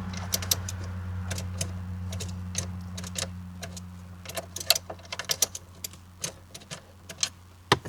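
Steady low electrical hum that slowly fades, with scattered light clicks, as the ignition key is turned on a 1984 Chevrolet S10 Blazer's 2.8 V6. The engine does not crank and the spark tester shows no spark: the weak battery and a suspected short leave nothing happening from the key.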